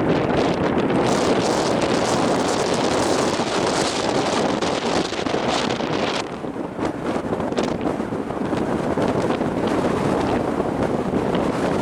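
Strong gusting wind buffeting the camera's microphone in a loud, rumbling roar, easing for a moment about six seconds in before picking up again.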